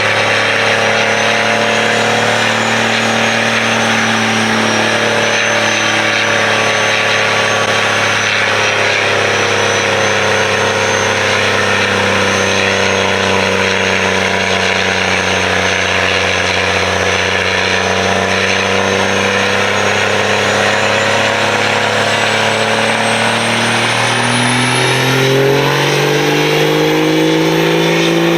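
Diesel pickup engine running hard under load on a chassis dyno, with a high turbo whistle over the engine note. The pitch holds fairly steady, then rises over the last few seconds as the engine and turbo wind up.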